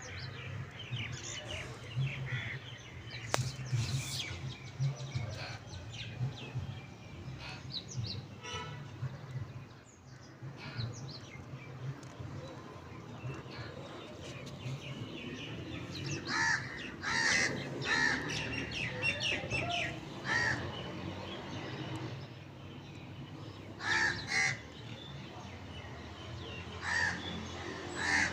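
Outdoor birdsong: birds chirping and calling throughout, with louder bursts of calls in short clusters at several points, over a steady low hum.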